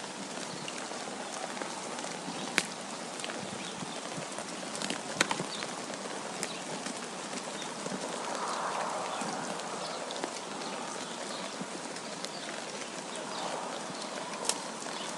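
Steady wind noise that swells briefly about halfway through, with a few scattered sharp ticks over it.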